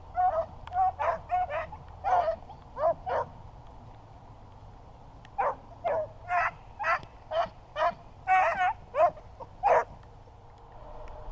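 Beagles baying in short, pitch-bending yelps, about seventeen in two runs with a pause of about two seconds between: hounds giving voice as they run a rabbit's trail.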